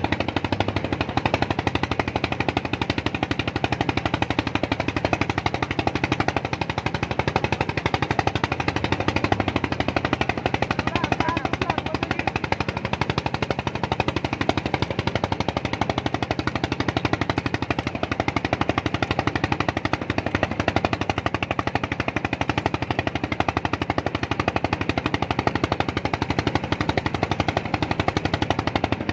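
Small engine running steadily with a fast, even knocking pulse.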